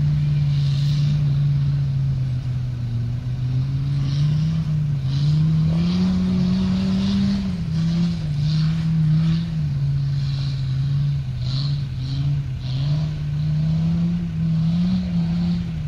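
Off-road 4x4 engine working under load, its revs rising and falling repeatedly as it pulls over rough ground.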